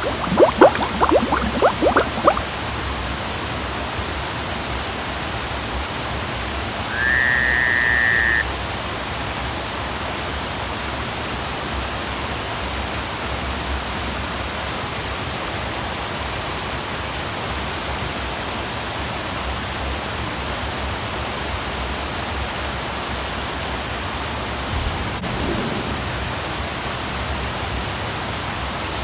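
Waterfall: a steady, even rush of falling water. A rapid run of clicks sounds in the first two seconds, and one high, steady whistle-like tone lasting about a second and a half comes about seven seconds in.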